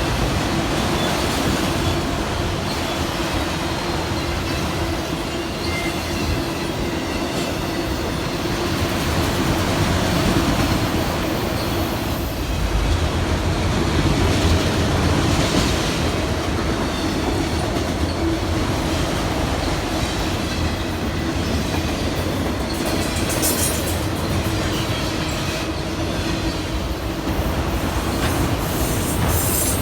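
A train rolling by on the rails: a steady rumble of wheels on track, with short high-pitched wheel squeals a few seconds before the end and again at the end.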